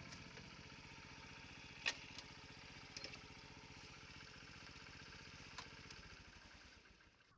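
Honda Super Cub's small single-cylinder engine idling faintly, with a few light clicks. It fades away near the end.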